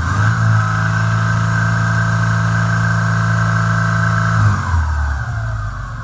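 Subaru EJ25 2.5-litre flat-four engine revved and held steady at high speed for about four seconds, then the revs drop back. The owner believes the engine is finished, with a knock he expects to be a failing rod.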